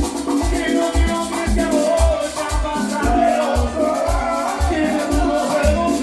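Salsa band playing an instrumental passage, with maracas shaking over a pulsing bass line and wavering melody lines.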